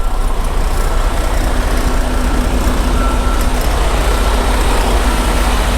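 Semi truck's diesel engine running, a steady loud low rumble.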